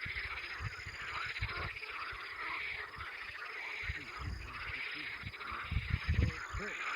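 A dense chorus of frogs croaking, a steady rapid pulsing, with scattered low thumps on the microphone.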